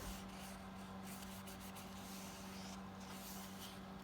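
Faint rustling of paper and card being handled, over a steady low electrical hum.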